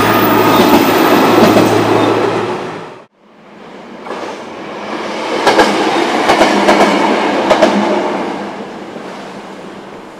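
A train runs past and cuts off abruptly about three seconds in. Then the blue Tango no Umi diesel railcar comes closer and passes, its wheels clicking over rail joints, and fades away.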